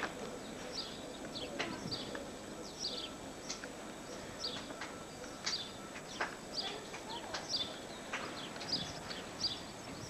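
Small birds chirping again and again in short, quick, falling notes, with a few sharp knocks mixed in.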